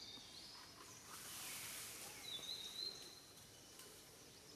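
Faint outdoor ambience with birds chirping, including a thin high whistle held for under a second a little past the middle.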